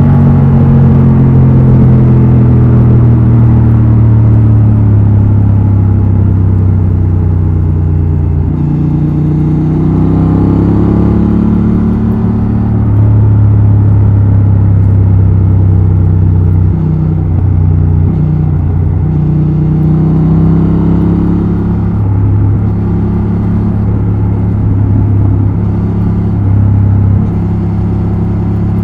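Honda Transalp XL750's 755 cc parallel-twin engine and exhaust under way, the engine note climbing and dropping several times as the bike pulls and changes speed.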